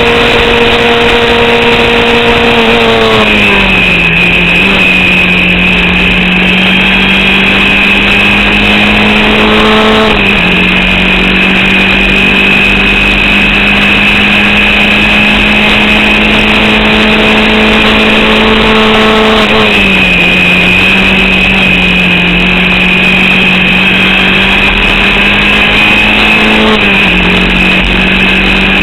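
Formula Vauxhall 8v single-seater's four-cylinder engine heard from on board at full throttle, its revs held almost flat for long stretches, dropping in pitch about 3 seconds in, and again near 20 and 27 seconds, and rising once near 10 seconds, with a steady high whine above it. The engine is misfiring and losing power to an alternator/battery fault, which keeps its revs capped.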